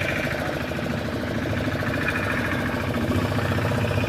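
Fishing boat's engine running steadily, an even low chugging with no change in speed.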